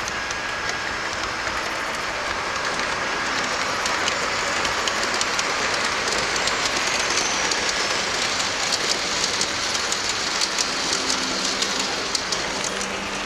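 Gauge 1 model train running on metal track: a steady rolling rush of the wheels, growing a little louder over the first few seconds, with rapid clicks of the wheels over the rail joints, thickest in the second half.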